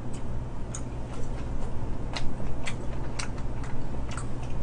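Close-up mouth sounds of chewing and gnawing a fried chicken drumstick: short crisp clicks and smacks, about two a second, over a low steady hum.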